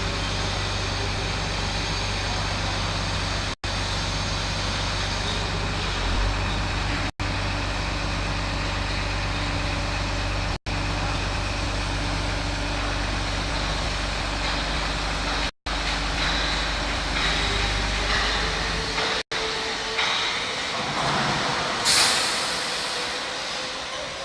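Heavy transporter truck's diesel engine running steadily, broken by several brief gaps. Near the end the low engine sound falls away and a loud hiss of released air, like an air brake, rises and fades.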